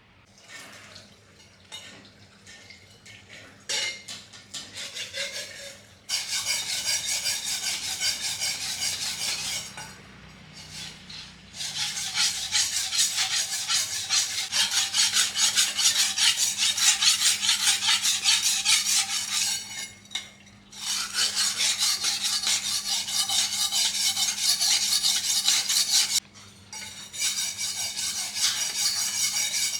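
Fast, repeated rasping strokes on metal, as when scrubbing or filing rust off a part by hand. The strokes come in long bursts of several seconds with short pauses between them, over a faint steady low hum.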